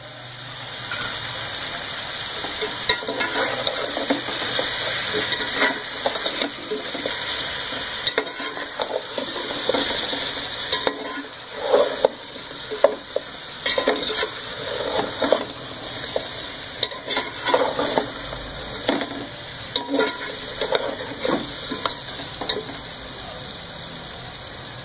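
Beef pieces and whole spices frying in a metal pot: a steady sizzle that builds over the first couple of seconds while a slotted metal spatula stirs and scrapes, with frequent short clinks of the spatula against the pot.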